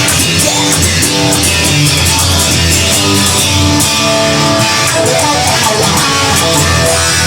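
Guitar-led rock music without singing: an instrumental passage of the song, with guitar over a steady bass.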